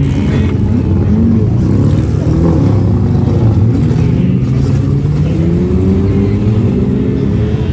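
Several demolition-derby vehicle engines running and revving at once, their pitches rising and falling over one another.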